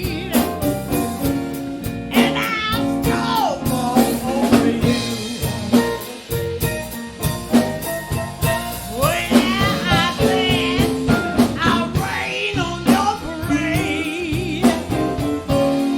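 Live band playing a bluesy song on drum kit, bass, keyboards and electric guitar, over a steady beat. A high lead melody wavers with heavy vibrato above the band.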